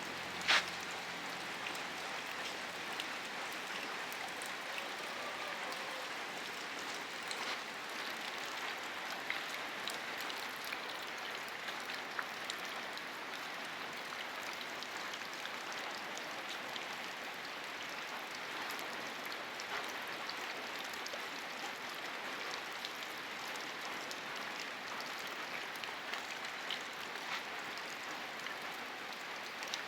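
Steady rain falling: an even hiss with scattered drop ticks, and one sharp click about half a second in.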